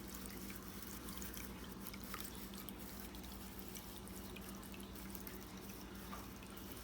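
Small tabletop water fountain running: water trickling, with scattered small drips, over a steady low hum.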